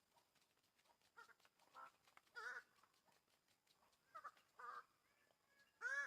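A bird-of-paradise calling: about six short calls, each with a wavering pitch, spread over a few seconds, the last and loudest near the end.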